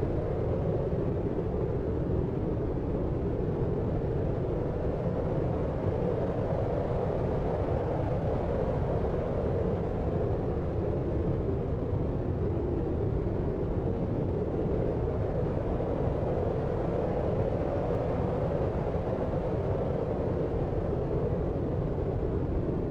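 Steady deep sleep noise, a dull, low-pitched hiss with no events in it.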